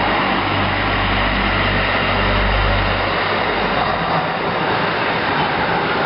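Portland MAX light rail train running, a steady loud rumble and hiss, with a low motor hum that fades out a little past halfway.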